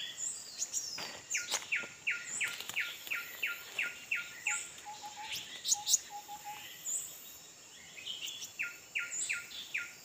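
Bird calls: a fast, even series of about a dozen descending whistled notes, about three a second, starting about a second in and coming again near the end, with higher chirps and a few sharp clicks.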